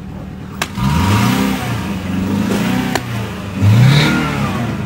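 Car engine revving twice, each rev a rising note, with a sharp click just before the first rev and another between the two.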